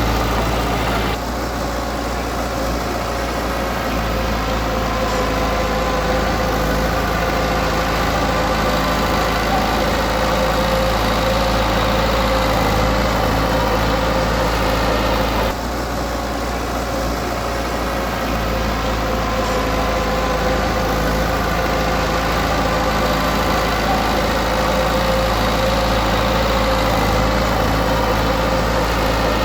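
Heavy machine's diesel engine running steadily, with a sudden small drop in level about a second in and again about halfway through.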